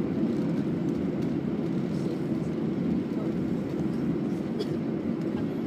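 Steady low rumble inside the cabin of an Airbus A320 on the ground after landing: engine and rolling noise with no distinct events.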